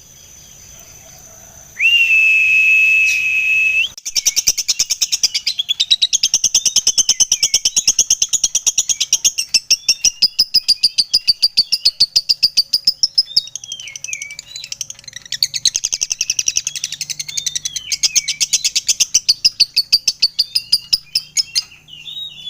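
Lovebird singing its long 'ngekek' chatter: a rapid run of sharp, high chattering notes, several a second, kept up with only brief breaks. Before it, about two seconds in, comes a steady high note held for about two seconds.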